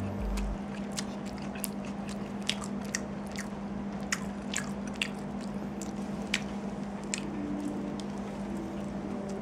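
Close-up eating of a McDonald's spicy fried chicken burger: chewing and biting with irregular, sharp wet mouth clicks. A steady low hum runs underneath.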